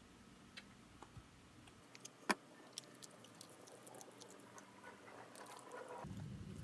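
Spatula stirring a thick peanut butter, mashed banana and honey stuffing: faint wet squishing with scattered light clicks, one sharper click about two seconds in.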